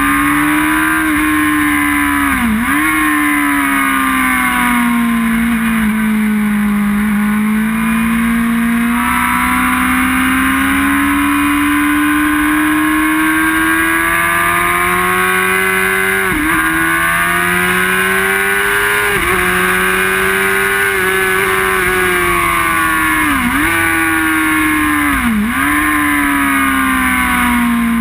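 Onboard sound of an inline-four sport bike engine at speed on track. It pulls steadily with its pitch rising and falling through the corners, and several quick gear changes show as brief sharp dips in pitch.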